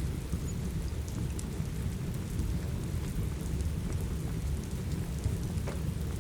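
Steady rain over a deep continuous rumble, with the scattered small crackles and pops of a wood fire, one sharper pop near the end.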